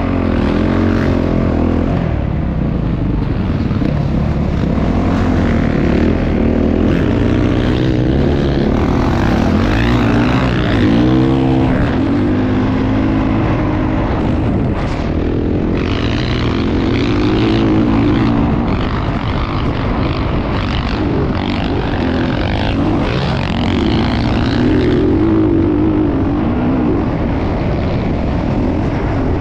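Motocross bike engine running hard, its pitch rising and falling again and again as it revs up and down.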